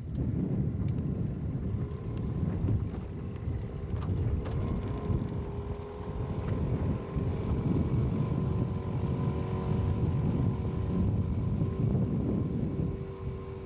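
Wind buffeting the microphone in a ragged low rumble, with a boat motor's steady hum coming in about four seconds in, rising slightly in pitch and then holding.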